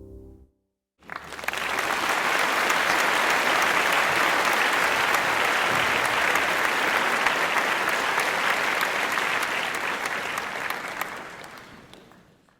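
A crowd applauding: dense, steady clapping that comes in about a second in, then fades out near the end.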